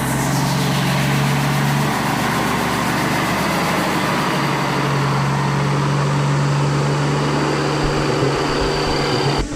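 Truck engine running steadily with a low hum, cut off abruptly near the end.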